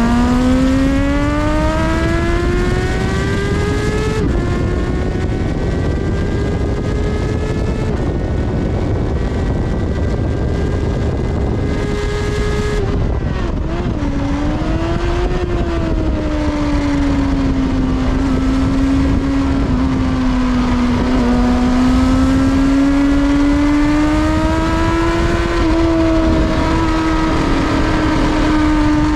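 Kawasaki ZXR400 inline-four engine under way on track, heard on board. The revs climb for about four seconds and a gear change drops the pitch. It holds high revs until about thirteen seconds in, then the throttle closes and the revs fall with downshifts. It runs at lower revs to the end, with wind rushing over the microphone.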